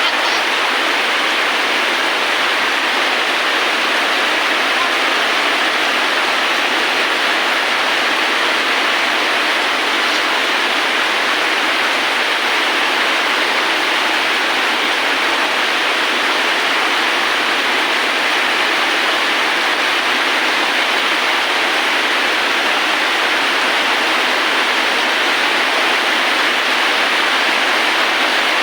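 Steady rain falling, an even hiss that never breaks or changes.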